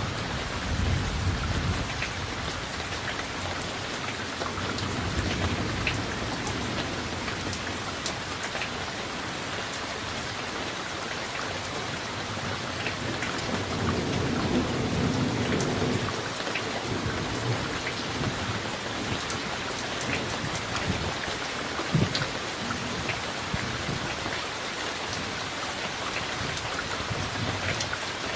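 Steady summer thunderstorm rain falling with many small drop ticks, and low rolls of thunder about a second in and again around halfway through. A single sharp knock stands out about three-quarters of the way through.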